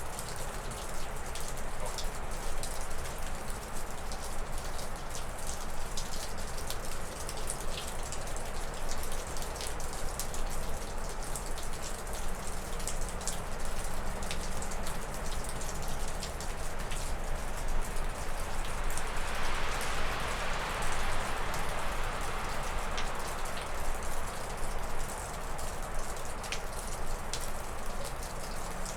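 Wind gusting through spruce and birch trees, with water dripping off a roof as snow melts: many small irregular drips over the steady rush of wind. A stronger gust swells about two-thirds of the way in and then eases.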